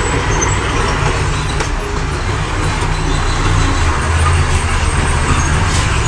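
Diesel engine of heavy earthmoving machinery running steadily, with a deep low rumble.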